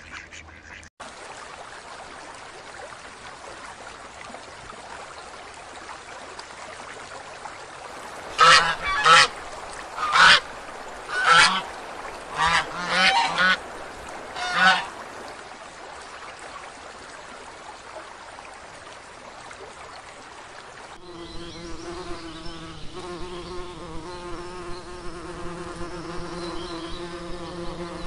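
Goose honking: about seven loud calls in a row over some seven seconds, against a steady background hiss. About three-quarters of the way through, a steady insect buzzing starts and keeps going.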